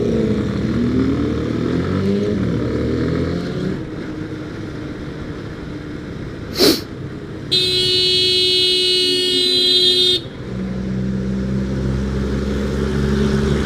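Motorcycle engine of a Yamaha FZ16 (153 cc single) rising in pitch as it accelerates on the road, then a vehicle horn sounding in one steady blast of about two and a half seconds. After it, the engine runs at a steady pitch.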